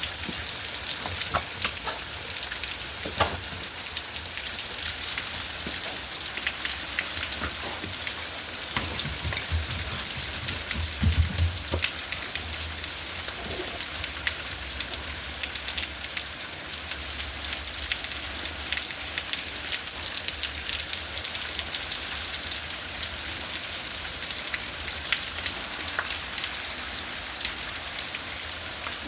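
Hail and rain storm: a steady hiss of heavy rain with many sharp ticks of hailstones striking hard surfaces.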